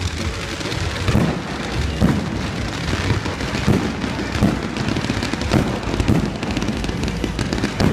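Fireworks display: aerial shells bursting in a steady run of sharp bangs, about one or two a second, over continuous crackling.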